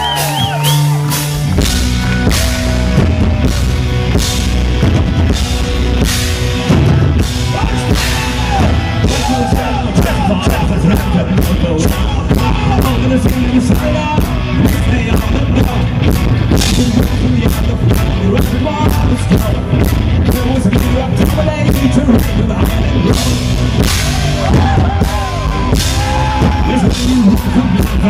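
Live Irish folk-rock band playing an instrumental intro: a held tone gives way about a second and a half in to a full drum kit and bass, with a wavering lead melody over the top.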